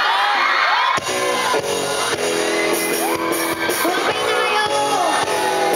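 Amateur rock band playing live with guitars and drums, cymbals crashing in a steady beat, while the crowd shouts and cheers over it. The crowd's whoops are on their own at first; the band's sound comes in abruptly about a second in.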